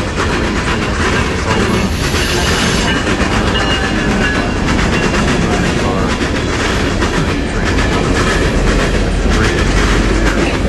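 A train running on rails: a steady loud rumble with a dense rattle of wheel and track noise.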